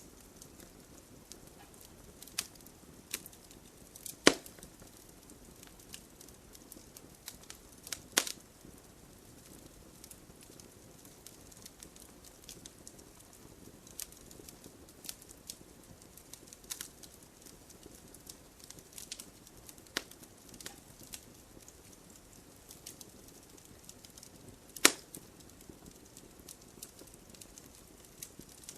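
Wood fire in an open fireplace crackling, with scattered small snaps and three loud pops about 4, 8 and 25 seconds in, over a faint low hiss of burning.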